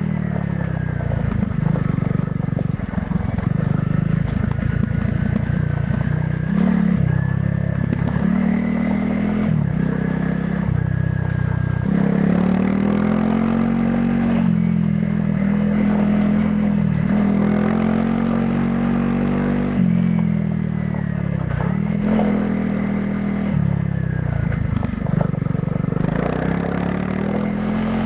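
Honda CRF300 Rally's single-cylinder engine running through its stock exhaust while riding. The engine note rises and falls again and again as it revs up, with short drops in between where the rider shifts or rolls off the throttle.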